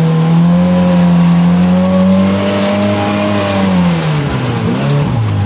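Side-by-side UTV engine running at a steady cruising speed, then dropping in revs about four seconds in and settling at a lower, steady note as the machine slows down.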